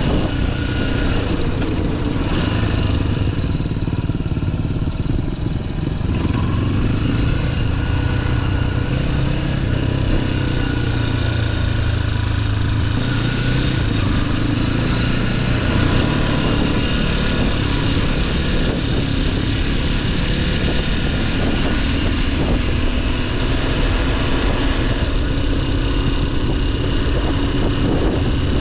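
Motorcycle engine running under way, heard from an onboard action camera, with engine speed rising and falling a little as it rides.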